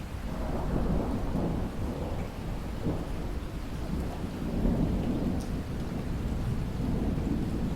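Rolling thunder over steady heavy rain; the low rumble swells about a second in and keeps going.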